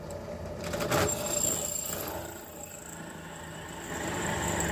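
Electric drill boring a hole into the end of a steel railroad spike, running steadily with a thin high whine. A louder knock about a second in.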